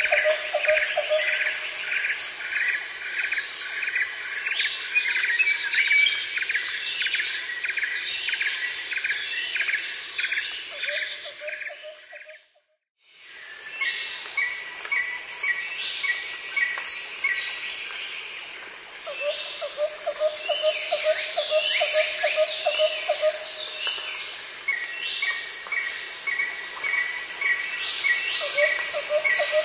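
Nature soundscape of many birds chirping and calling over rapid pulsed trills from insects and frogs. It fades out briefly about twelve seconds in, then returns.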